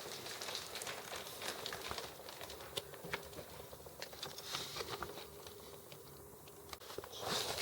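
Faint rustling and handling noise with scattered small clicks, and a short louder rush of noise near the end.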